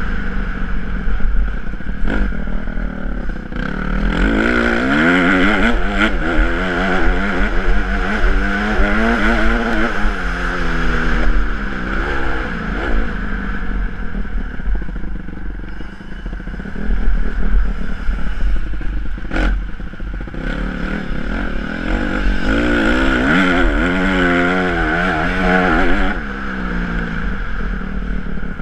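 Honda CRF150R single-cylinder four-stroke dirt bike engine revving up and falling off as it is ridden around a motocross track, with two long climbs in pitch under throttle and a low rumble underneath.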